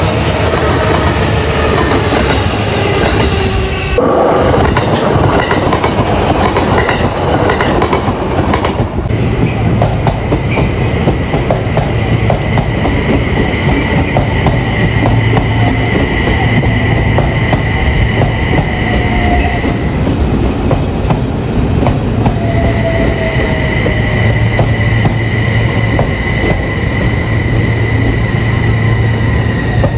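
Train wheels passing close by over rail joints, a loud run of repeated clacks. The sound changes abruptly about four seconds in and again about nine seconds in, after which a steady high whine runs with the clacking, breaking off briefly around twenty seconds in.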